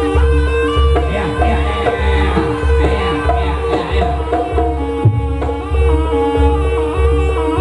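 Live jaranan music: hand drums keeping a steady low beat under a wavering melody and a long held tone.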